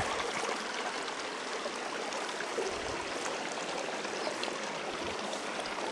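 A small stream flowing: a steady, even rush of running water.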